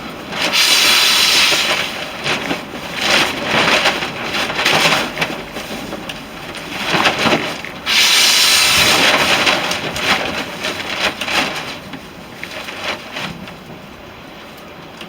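Long, breathy whooshes of air as a person blows repeatedly into a smouldering ember held in a tinder bundle, to coax it into flame. The blows come in bursts of a second or two, the strongest about half a second in and again about eight seconds in, growing weaker toward the end.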